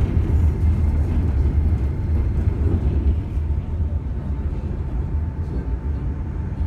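Enoden electric train running slowly along street track, heard from inside the front car: a steady low rumble with a faint steady whine above it.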